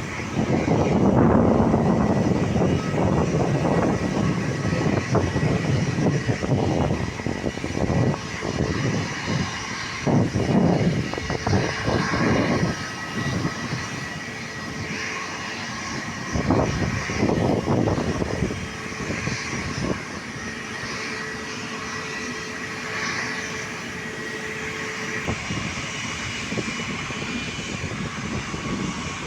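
Jet airliner's engines at a runway, loudest for the first dozen seconds and then dropping to a lower, steadier rumble, with a faint steady high whine.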